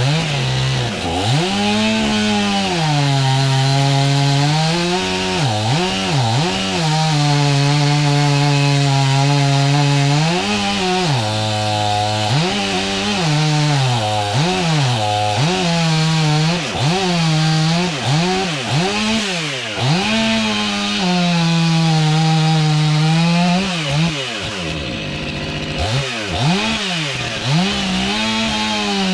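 Two-stroke chainsaw running at high revs and cutting wood, its engine note dropping under load and climbing back again and again as the chain bites in and eases off.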